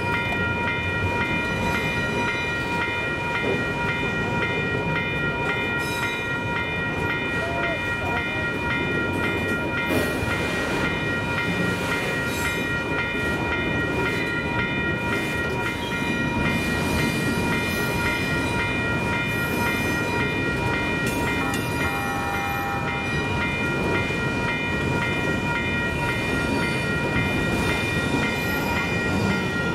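A train running, with a steady high whine of several stacked tones over a low rumble.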